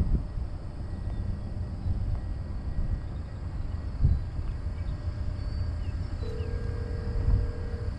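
Telephone ringback tone heard through a phone's speaker: a single steady ring tone lasting about two seconds, starting about six seconds in, the call ringing out at the other end. A steady low rumble runs underneath.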